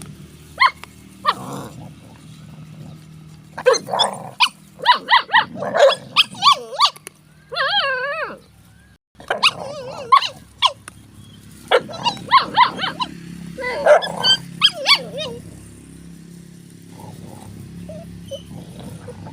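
A dog barking in bursts of short, sharp barks, with one longer wavering call about eight seconds in.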